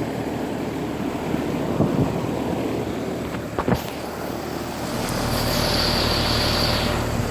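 Outdoor condenser of a 2018 Payne 3-ton central air conditioner with an LG compressor, running in cooling mode: a steady fan and compressor hum. A louder rushing swell rises about five seconds in and lasts about two seconds.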